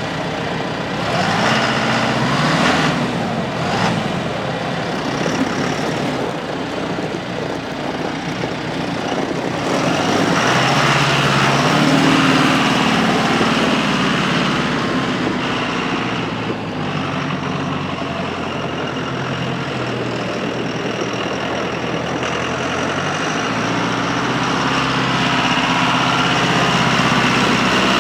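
A John Deere 5085E tractor's four-cylinder turbo diesel engine running, freshly started. Its speed rises and falls briefly a couple of seconds in, then rises again about ten seconds in and holds at a higher, steady speed.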